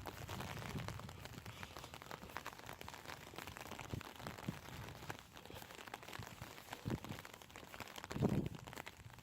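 Light rain pattering close by, a dense irregular crackle of drops, with a louder low thump about eight seconds in.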